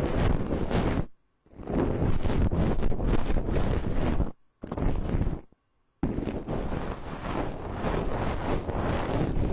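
ASMR trigger tool brushed rapidly against a binaural microphone: a dense, scratchy rustling with a low rumble, stopping briefly about a second in and twice more in the middle before resuming.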